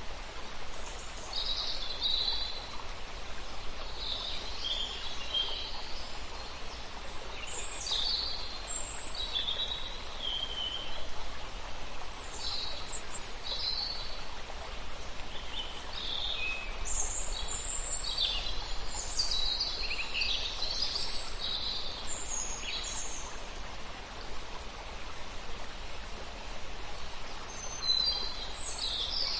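Several birds chirping and trilling in short high calls over a steady background hiss, the calls thickest in the middle and near the end.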